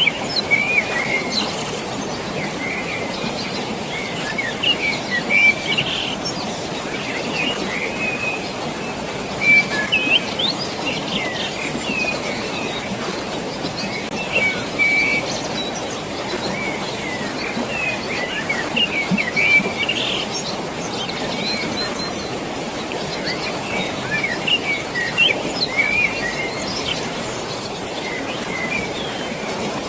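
Many birds chirping and calling in short, quick notes throughout, over a steady rush of flowing water.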